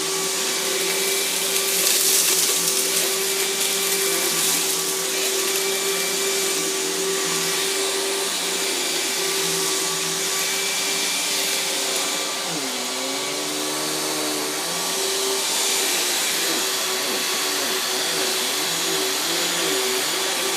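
Riccar 10 amp bagged vacuum cleaner running steadily over carpet, a continuous motor hum with rushing suction air. About two-thirds of the way through, the motor pitch dips briefly and comes back up.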